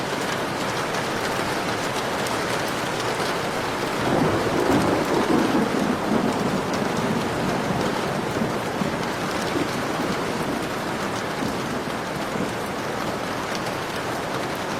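Heavy rain falling steadily, with a roll of thunder that swells up about four seconds in and rumbles away over the next few seconds.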